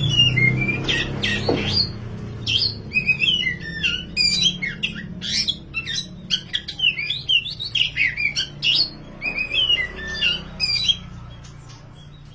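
Black oriental magpie-robin (kacer wulung) singing loudly, a fast, varied run of whistled and chattering notes that stops about a second before the end. A low steady hum runs underneath.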